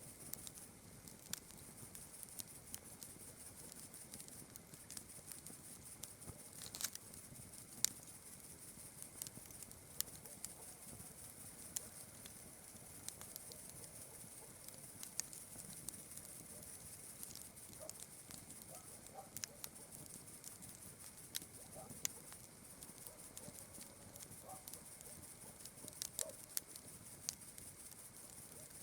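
Campfire crackling: irregular sharp pops and snaps, a few louder ones about seven and eight seconds in and again near twenty-two seconds, over a steady high chirring of night insects. A few faint short calls come in the second half.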